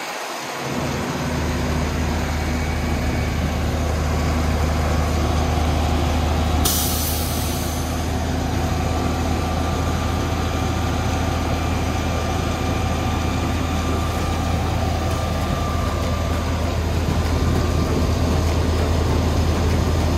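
Heavy diesel engine running steadily, with a short burst of hiss about seven seconds in.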